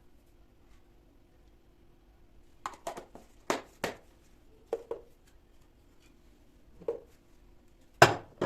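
Light knocks and taps of household objects being handled and set down, a quick cluster of four about three seconds in, a pair near five seconds, one near seven, and the loudest knock near the end, over a faint steady hum.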